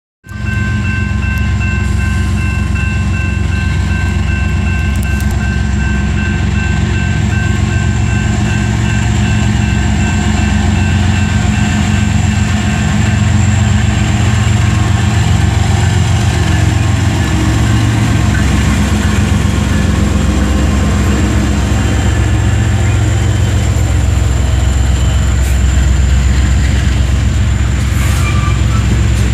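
Union Pacific freight train passing close by: the diesel locomotives' engines rumble loudly as they approach and go past, with steady high tones over the rumble for about the first half. Then covered hopper cars of frac sand roll past on the rails.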